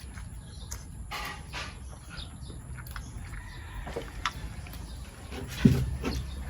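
Outdoor ambience with a steady low rumble and faint bird chirps, over a few short clicks and taps of people eating by hand; a brief low sound about five seconds in is the loudest.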